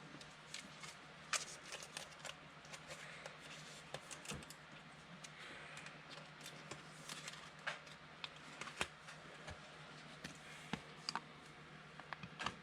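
Football trading cards being handled and flipped through by hand: faint, scattered soft clicks and rustles, over a low steady hum.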